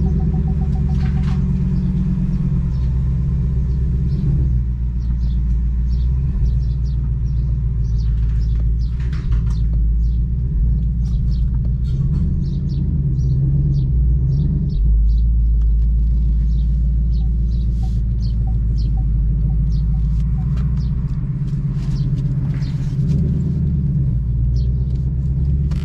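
Ford Mustang's engine idling and creeping at low speed, a loud, deep exhaust rumble with the exhaust set to its loudest mode. Scattered light ticks sit above it.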